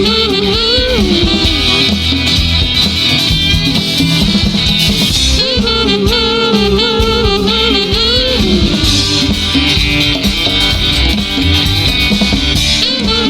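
Live rock band playing an instrumental break: a lead guitar line that bends and wavers in pitch over steady drums and bass.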